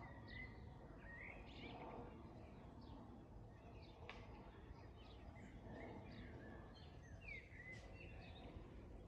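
Several songbirds chirping and singing in short, scattered calls and whistles, over a faint steady low rumble.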